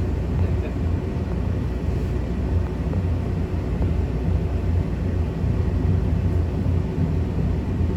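Passenger train running at speed, heard from inside a carriage: a steady low rumble of the wheels and running gear.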